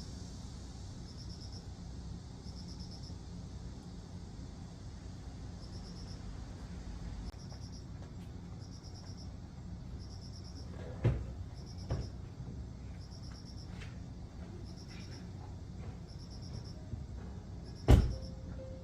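An insect chirping in short, evenly repeated high trills about every second and a half, over a low steady background rumble. A few sharp clicks cut in, twice close together a little past the middle and once, loudest, near the end.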